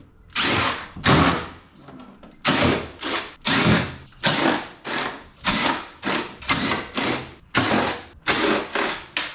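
A tool working on an air conditioner unit's metal casing and fasteners, in about a dozen short, harsh bursts at a little over one a second.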